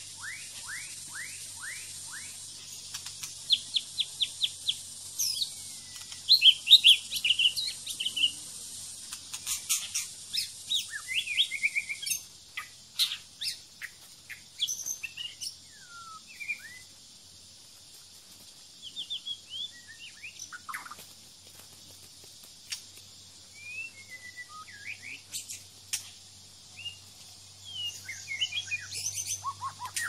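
Wild songbirds singing: a run of quick rising whistles in the first two seconds, then varied whistled phrases, chirps and trills, with a few sharp clicks between them.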